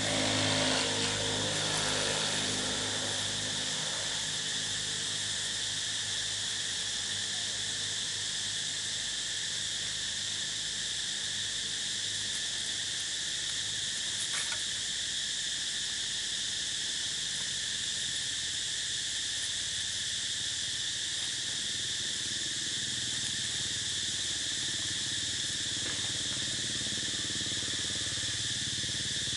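Steady high-pitched drone of insects, unbroken throughout, with a low hum in the first couple of seconds that fades out.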